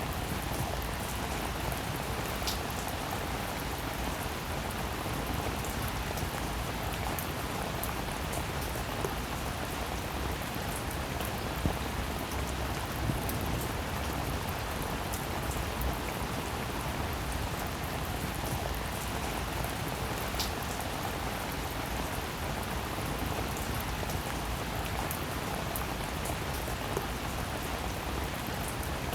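Steady rain falling, an even wash of drops with a few sharper single drop ticks.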